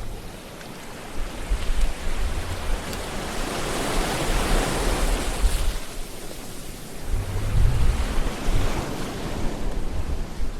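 Sea waves washing in, a broad hiss that swells to a peak a few seconds in and then fades, with low gusts of wind buffeting the microphone about three quarters of the way through.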